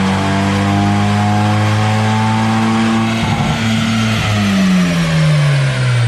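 BMW M550d's 3.0-litre straight-six diesel running hard at steady, slowly climbing revs, then the revs falling away over the last two seconds.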